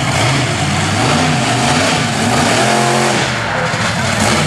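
Monster truck engine revving, its pitch rising and falling several times.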